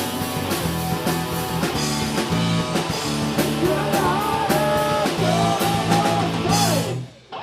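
Live punk rock band playing with electric guitars and drums, a voice singing from about three and a half seconds in; the song stops abruptly near the end.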